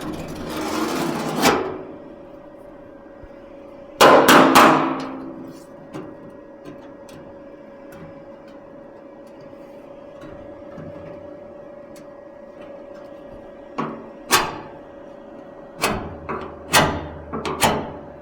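Metallic clanks and knocks of sheet-metal bodywork on a steel car fender: a loud ringing clang about four seconds in, then a quiet stretch and a run of lighter knocks near the end, over a faint steady hum.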